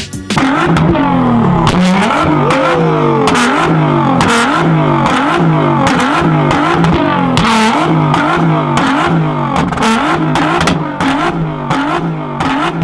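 Car engine being revved hard over and over in quick, even blips, each rising in pitch and cut short. Sharp pops and cracks come from the exhaust between them.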